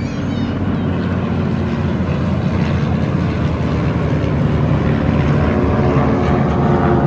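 A large vehicle's engine running with a steady low rumble, growing gradually louder as it approaches.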